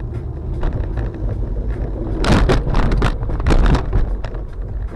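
Low, steady road rumble inside a moving car, with a cluster of loud knocks between about two and four seconds in.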